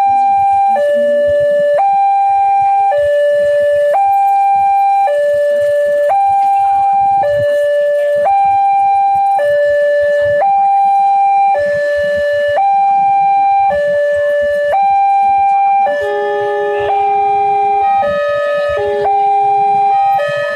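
Railway level-crossing warning alarm sounding an electronic two-tone hi-lo signal, switching pitch about once a second. About 16 seconds in, a second crossing alarm with lower tones joins out of step, so the two alarms clash.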